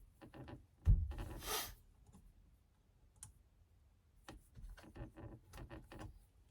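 Small hand-tool clicks as an Allen key works the steering-wheel bolts loose, with a thump and a short scrape about a second in and scattered light clicks near the end.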